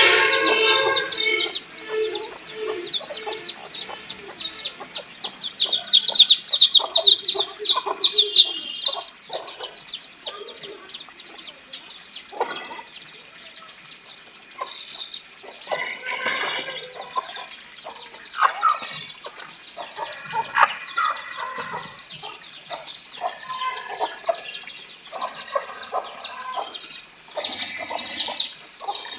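Chickens clucking over a dense, continuous run of short high chirps. The chirping is loudest about six to eight seconds in.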